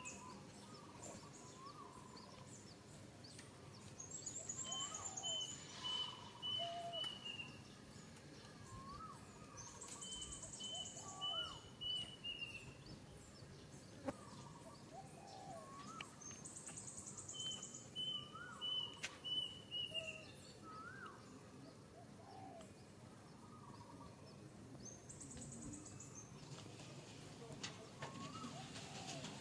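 Birds calling: a phrase of five or six short whistled notes, dropping slightly at the end, repeats about every six seconds and alternates with a high, fast trill, over scattered short chirps.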